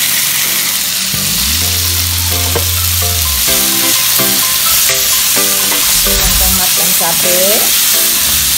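Chopped tomatoes and red chillies sizzling in hot oil in a ceramic pan, stirred with a spatula that scrapes the pan.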